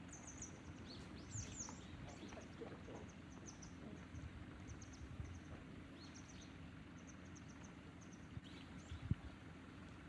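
Small birds chirping faintly in short, high, repeated calls over a low steady background hum.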